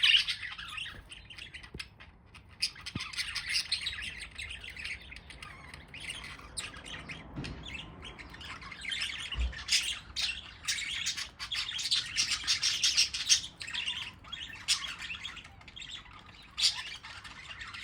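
A flock of budgerigars chattering, with a continuous mix of rapid chirps and squawks from many birds at once.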